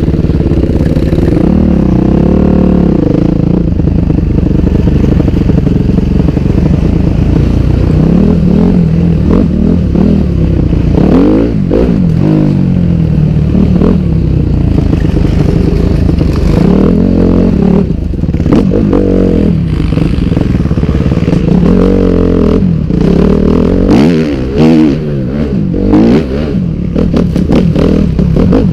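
Dirt bike engine being ridden hard, its pitch rising and falling again and again as it is revved up and backed off, with scattered clattering knocks.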